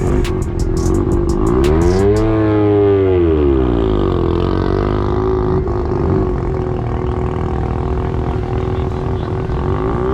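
A car engine running steadily, revved up and back down about two seconds in, then rising in revs again near the end.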